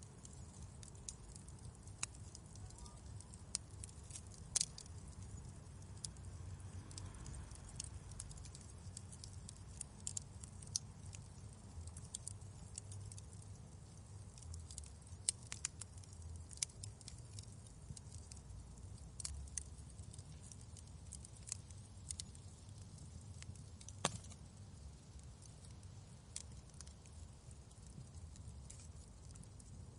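Wood fire in a fireplace crackling: scattered, irregular sharp pops and snaps over a low steady rumble.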